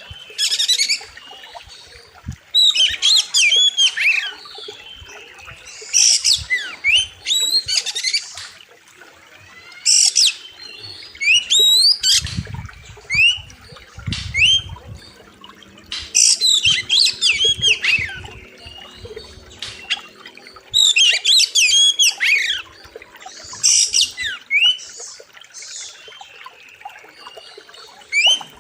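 Oriental magpie-robin (kacer) singing loudly in rapid bursts of sweeping, rising and falling whistles. A new phrase comes every second or two, with short pauses between them.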